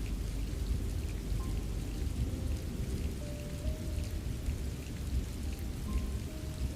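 Steady rain with scattered sharp drop ticks over a deep low rumble. A few soft held music notes sound faintly underneath.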